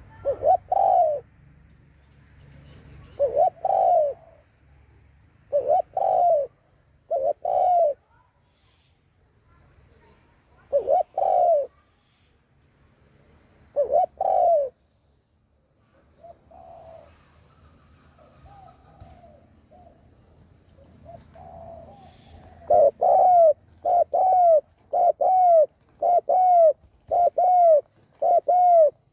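Spotted dove cooing: loud, arched coo notes in spaced pairs and singles, a few softer coos in the middle, then, about two-thirds in, a rapid run of coos, close to two a second.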